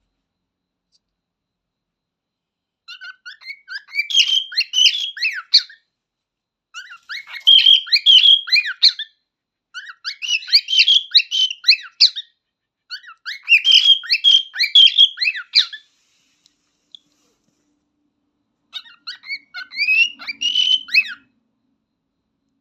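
Cockatiel singing: five bouts of quick, gliding whistled notes, each two to three seconds long, with short pauses between them and a longer pause before the last.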